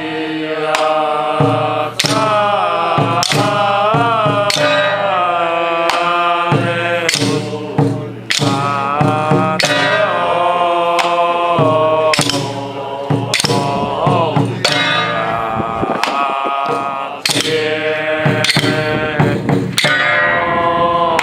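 Traditional Taoist ritual music: a wavering melody over irregular percussion strikes.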